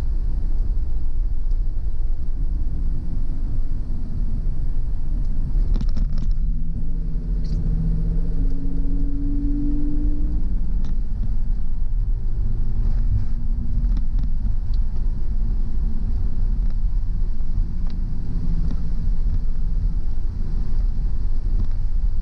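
Car driving along a road: a steady low rumble of road and engine noise. A humming engine note comes in about six seconds in and fades away by about fourteen seconds, with a few faint clicks near its start.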